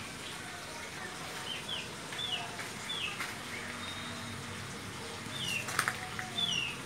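A small bird chirping: about six short, quick chirps that fall in pitch, spaced irregularly. Two sharp clicks a little before the end.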